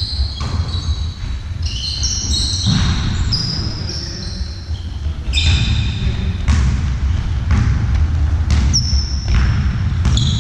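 Sports shoes squeaking on a hall floor in many short high squeaks, with occasional ball bounces, over a steady low rumble of a large hall.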